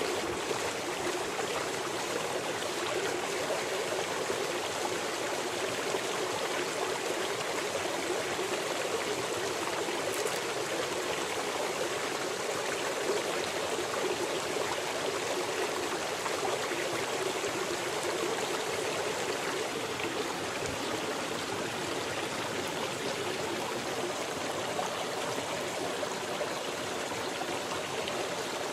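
Running water of a small stream, flowing steadily.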